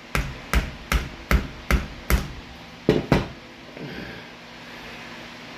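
Sharp knocks as a fitting is driven into rubber air hose: six evenly spaced strikes about two and a half a second, then after a short pause two more close together.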